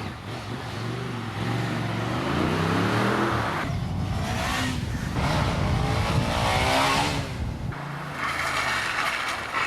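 Motorcycle doing a burnout: the engine is held at high revs, rising and falling, over the hiss of the spinning rear tyre. The sound changes abruptly twice, at about four and eight seconds in.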